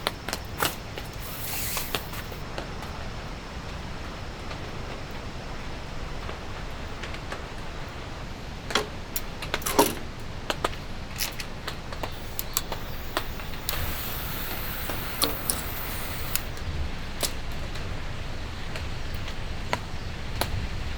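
Steady rain hiss, with scattered sharp clicks and knocks of gear being handled, the loudest two close together near the middle.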